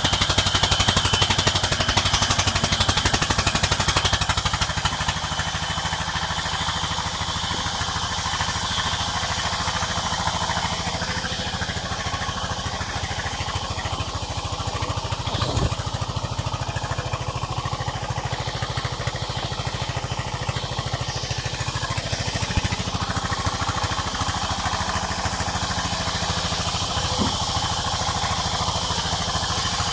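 Sawmill's engine running steadily, a little louder for the first few seconds.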